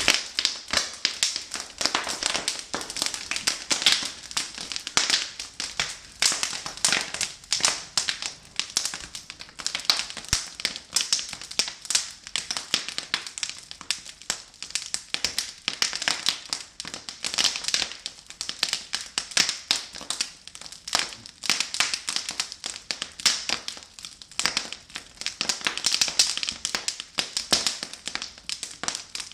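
A fire crackling: a steady run of irregular pops and snaps, several a second.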